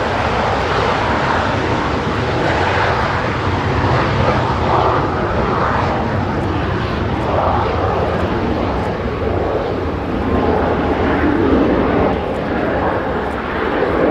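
Jet engines of Blue Impulse Kawasaki T-4 aircraft running, a loud, steady noise with slow swells, with voices mixed in.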